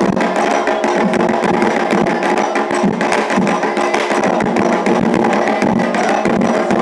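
Afro-Brazilian ceremonial drumming: hand drums struck in a dense, fast, steady rhythm with a bright wooden or metal percussion part over it.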